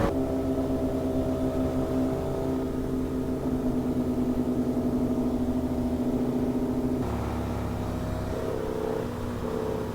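Sportbike engine running at a steady cruise from the rider's own motorcycle, holding an even pitch, then easing off and changing pitch about seven seconds in.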